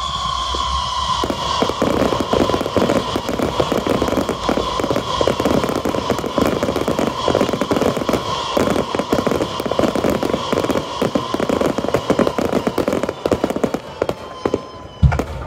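Fireworks barrage: dense, rapid crackling and popping from ground-fired fountains and low aerial shells, with a steady high tone held over it that fades near the end. A single loud bang stands out near the end.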